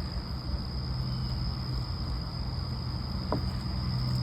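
Crickets trilling in one steady, unbroken high tone, over a low steady hum and rumble.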